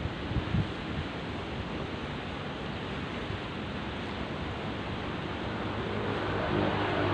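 Sea waves washing steadily, with wind buffeting the microphone in a few low thumps near the start. Faint steady tones rise in from about six seconds in.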